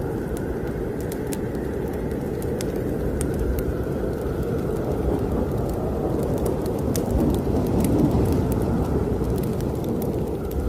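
Blizzard wind blowing in a steady low rush that swells into a stronger gust about three-quarters of the way through, with a wood fire in a fireplace crackling in scattered sharp pops over it.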